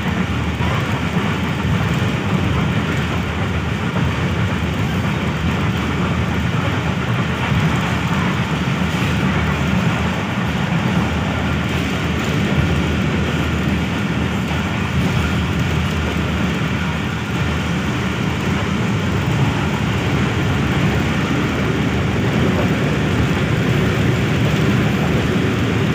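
Passenger train coach running along the track, heard from inside the carriage: a steady rumble of wheels on the rails.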